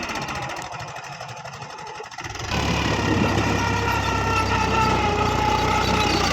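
Tractor engine running: its fast pulsing beat fades and thins for a couple of seconds, then returns louder and steady about two and a half seconds in.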